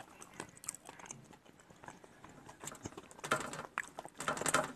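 Close-up eating sounds: small wet clicks and smacks of a mouth chewing soft, sticky steamed fruit, with two short louder rustling bursts in the second half.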